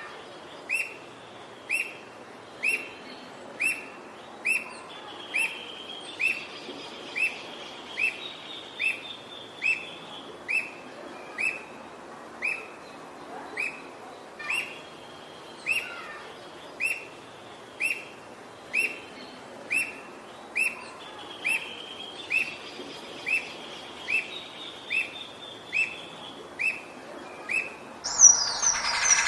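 A songbird calling one short, sharp, downslurred note over and over, evenly, about every two-thirds of a second. A softer trill comes in twice behind it. About a second before the end, a much louder, busier bird sound cuts in.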